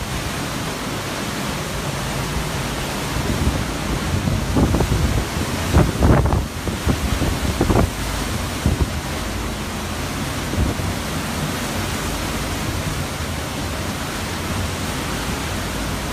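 Hurricane wind blowing steadily, with stronger gusts buffeting the microphone from about three to eight seconds in.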